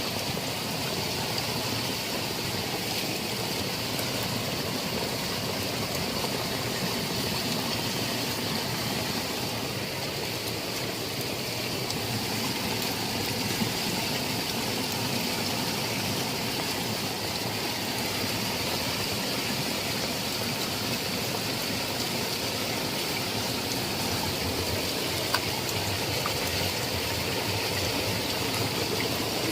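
Heavy rain falling steadily, an even hiss that does not let up, with two brief ticks, one about halfway through and one near the end.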